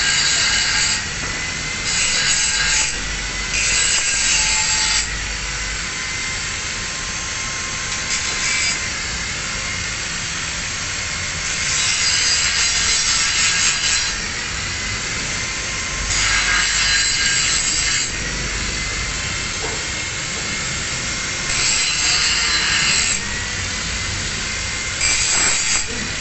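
Angle grinder running with a steady whine, its disc grinding a single bevel onto a metal edge in repeated passes, each one to two seconds long, about eight times.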